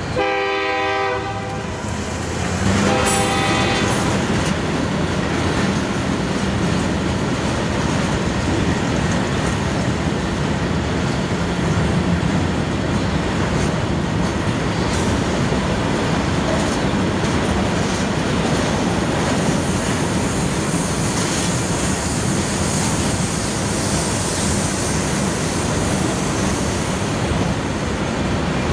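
Union Pacific manifest freight train passing: the locomotive horn sounds a long blast at the start and a shorter, fainter one about three seconds in. Then comes the steady rumble and clatter of the freight cars rolling by.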